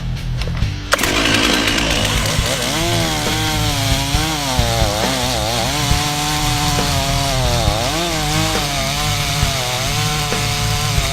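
STIHL chainsaw opening up to full throttle about a second in, then sawing the top cut of a face notch into a tree trunk. The engine pitch dips and recovers again and again as the chain bites into the wood.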